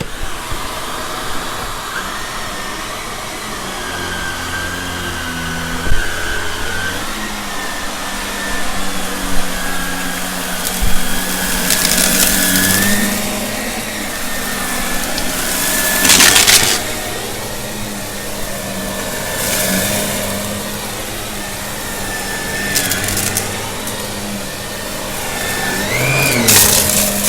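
Shark vacuum cleaner running steadily with a motor whine, picking up a test mess, with louder rushing surges every few seconds.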